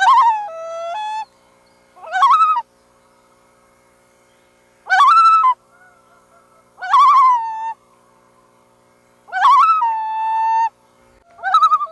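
Loons calling: six separate calls about every two seconds, each a quavering note that drops to a lower, steadier pitch.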